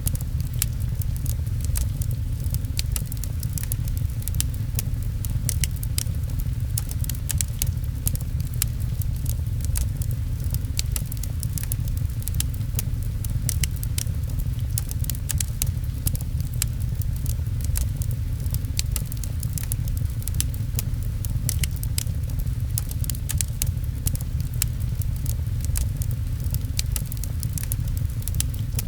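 Wood fire crackling with many small sharp pops over a steady low rumble of rain.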